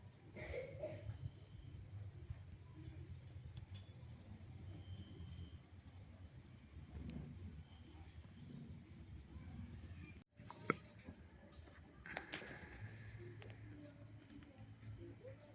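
Crickets singing at night, a steady high-pitched trill over faint low background noise, broken by a momentary silence about ten seconds in.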